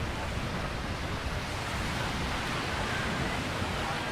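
Atlantic Ocean surf washing onto the beach as a steady wash of noise, with wind rumbling on the microphone.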